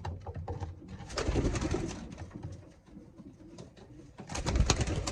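Racing pigeons cooing in a loft, with two louder bursts of rustling and scuffling, about a second in and again near the end, as a young bird is taken in hand.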